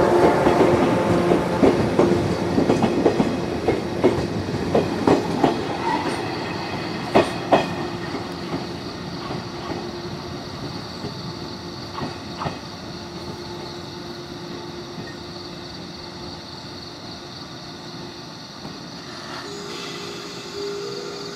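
JR Kyushu 415 series electric train rolling slowly along the track, its wheels clacking over the rail joints, a steady running hum beneath, all fading away over the first several seconds. A quieter steady sound follows, and a new steady hum starts near the end.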